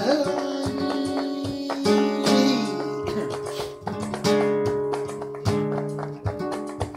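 Flamenco-style acoustic guitar music, chords strummed in a steady rhythm.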